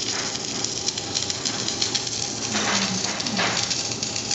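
Submerged arc welding, Daf DF1000 power source with DF7 tractor, building up a guide wheel: a steady crackling sizzle under a steady hum. A short low tone that falls off at its end about two and a half seconds in.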